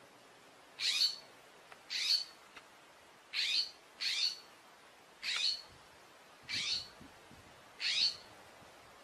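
An animal calling over and over: seven short, high-pitched calls about a second apart, each sliding down in pitch.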